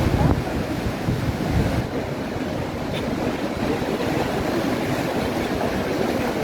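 Ocean surf washing on the shore, with wind buffeting the microphone in heavier low gusts during the first couple of seconds.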